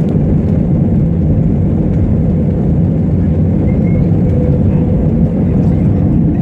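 Airbus A320-200 heard from inside the passenger cabin under engine power for takeoff: a loud, steady jet-engine and airflow rumble that does not change.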